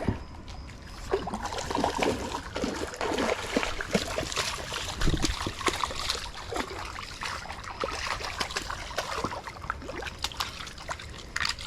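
Water trickling and splashing, with many small irregular knocks and scrapes.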